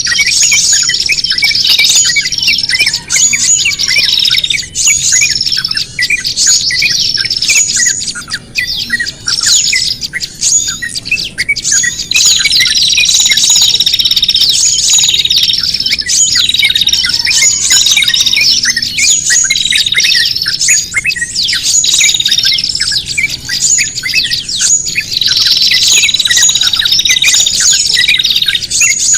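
Bird-lure recording of small songbirds calling noisily all together: dense, rapid chirps and scolding calls that repeat in a regular pattern about once a second. It is meant as the agitated, distressed racket of small birds, used to draw other birds in.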